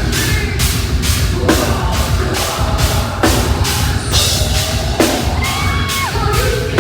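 Heavy metal band playing live and loud, with pounding drum kit, heavy guitars and some singing.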